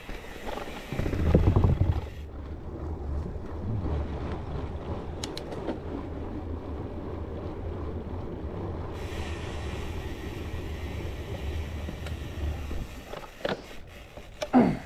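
Mountain bike being ridden on a dirt trail: low wind rumble on the microphone with tyre and rattle noise, loudest about a second in.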